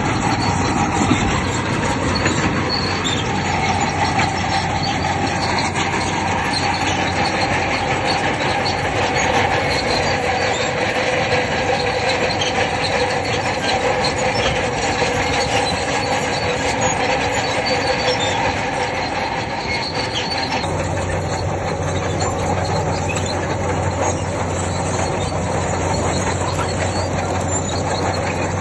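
Crawler bulldozer working: a diesel engine running with the steel tracks squealing and clanking steadily. About two-thirds of the way through, a deeper engine hum comes up.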